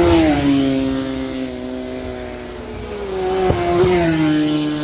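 Superbike racing motorcycles passing at speed, each engine note dropping in pitch as it goes by: one right at the start and another about four seconds in.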